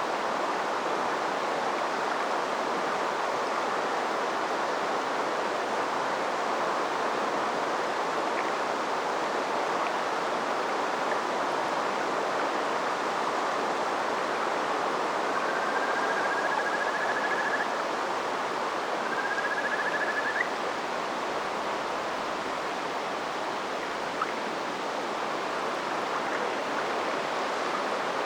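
River water flowing steadily, a continuous even rush. Near the middle come two faint, drawn-out trilled notes, the second shorter than the first.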